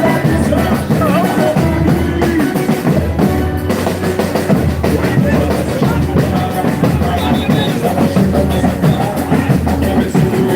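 Live band playing a boi-bumbá toada, with heavy drums and a pulsing bass.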